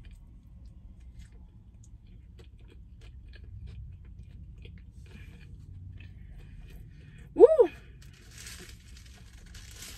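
Close-up chewing of a crispy fried chicken sandwich: small crunches and mouth clicks over a low steady rumble. About seven seconds in comes a short, loud "woo!", then a soft rustle near the end.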